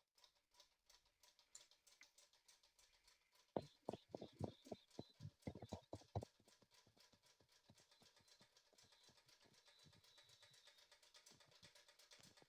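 Small homemade Stirling engine running: a faint, fast, even ticking from its crankshaft and connecting rods turning, with a brief spell of louder knocking about four to six seconds in.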